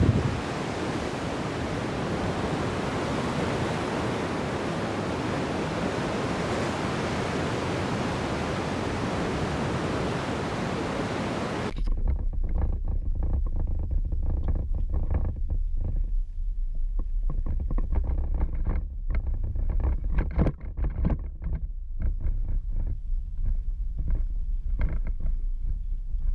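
A steady rush of surf or moving water, then an abrupt change to a low rumble with irregular gusty buffeting, like an engine or wind on the microphone.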